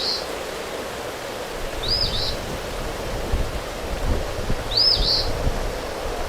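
Steady rain and wind noise, with a small bird giving a short rising-and-falling chirp three times, a couple of seconds apart; low wind rumble on the microphone comes in about a second and a half in.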